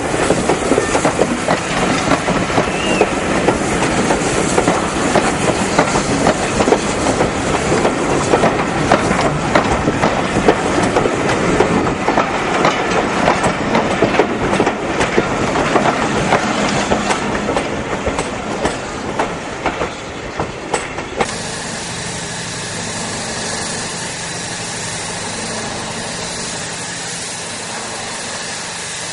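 Passenger coaches of a steam-hauled train rolling past, their wheels clicking and clattering over the rail joints, easing off as the train draws away. About three-quarters of the way through it cuts abruptly to a steadier, quieter sound with a low steady hum.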